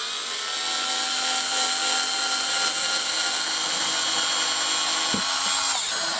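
Power drill running steadily, its pitch dipping briefly near the end.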